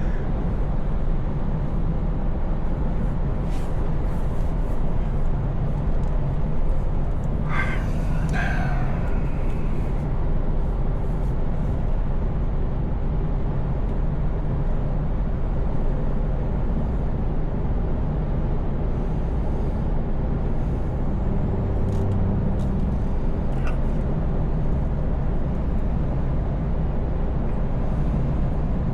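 Scania S580 V8 truck engine running steadily at cruise with a continuous road rumble. About eight seconds in, a short higher squeak cuts in briefly, and there are a couple of faint clicks later on.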